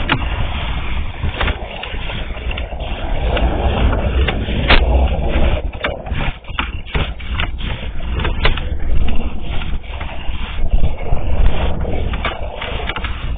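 Sewer inspection camera's push cable being pulled back through the line, with irregular scraping and clicking over a steady low rumble.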